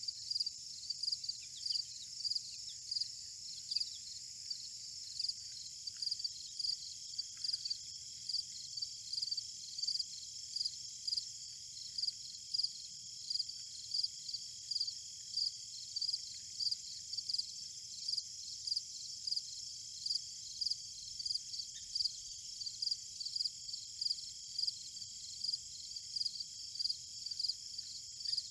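Insects chirping in a field: a steady high-pitched buzz with short chirps repeating in quick groups throughout. A second thin, steady high tone joins about six seconds in.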